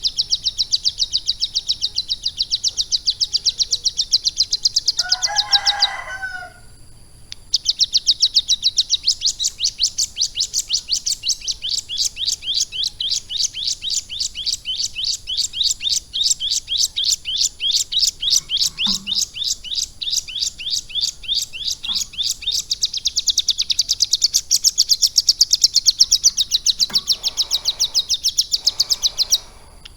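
Ciblek gunung (a prinia) singing a long, rapid run of high repeated chirps, pausing briefly about six seconds in. A shorter, lower call sounds just before the pause.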